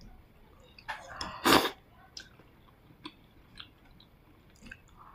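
Close-up eating of lamb offal soup: soft chewing with small wet clicks, and one loud, short slurp of soup about a second and a half in.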